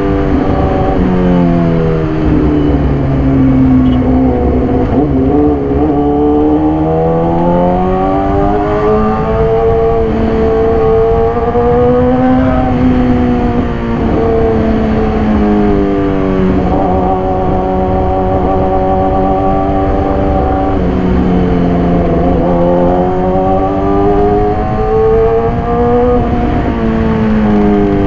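2014 Yamaha YZF-R6's inline-four engine breathing through an SC-Project exhaust while the bike is ridden. The engine note climbs and drops repeatedly, each swell lasting a few seconds, as the revs rise and fall.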